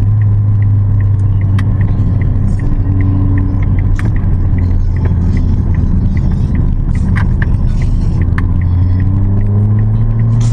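Car running on the road with a steady low engine and road drone, a light regular ticking over it, and a few sharp clicks. Near the end the engine pitch rises as the car speeds up.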